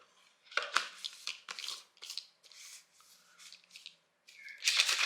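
Plastic protein shaker bottle being handled with scattered clicks and rustles, then about four and a half seconds in it is shaken hard, a dense rapid rattling as powder and water are mixed into a shake.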